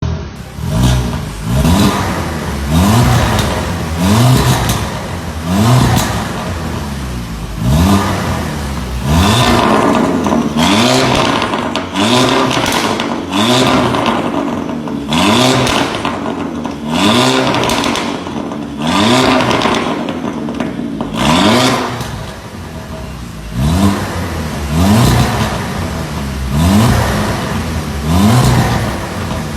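VW Beetle 2.0 four-cylinder engine revved again and again through an aftermarket valved performance muffler exhaust, the pitch rising sharply and dropping back with each blip, one every second or two.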